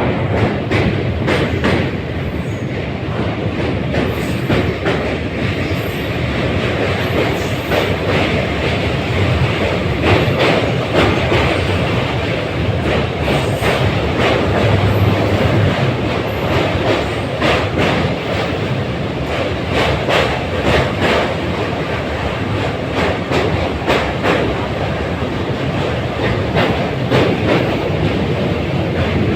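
Train running steadily, its wheels clattering over the rail joints in a continuous stream of clicks over a steady rumble.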